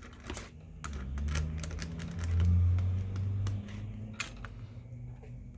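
Light clicks and scrapes of a screwdriver being rubbed along a wrinkled phone battery to smooth it flat, over a low hum that grows louder about two seconds in.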